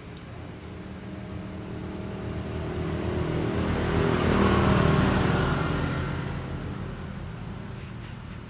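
A motor vehicle passing by, growing louder to a peak about halfway through and then fading away.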